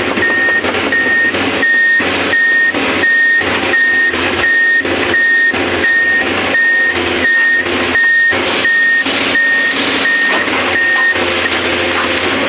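Excavator's travel alarm beeping steadily, about two beeps a second, over the running engine; the beeping stops about eleven seconds in.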